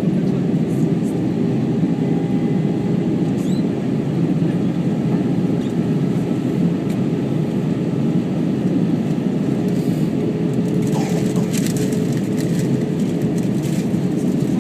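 Steady cabin noise inside an Airbus A321 in flight: a constant low roar of engines and airflow, with a faint steady hum.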